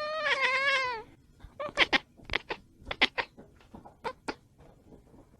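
An animal's call: one wavering, drawn-out cry about a second long, followed by a series of short, sharp squeaky sounds.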